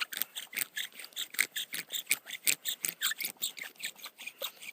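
Bow drill at work: the wooden spindle rasping and squeaking in its fireboard hole as the bow is sawn back and forth, a quick even rhythm of several strokes a second, friction fire-making.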